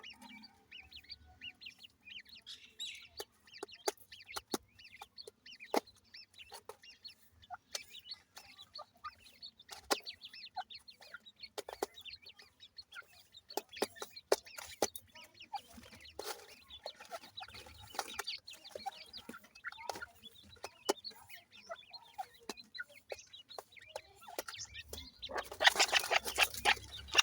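Grey francolin chicks peeping: many short, scattered calls mixed with sharp ticks. A louder burst of scratchy noise comes near the end.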